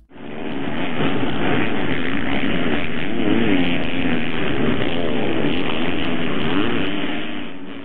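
Motocross dirt bike engine revving, its pitch rising and falling. It fades in at the start and fades out near the end.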